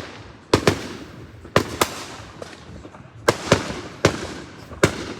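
Fireworks going off: a string of sharp bangs at irregular intervals, some in quick pairs, about nine in five seconds, each with a short fading tail.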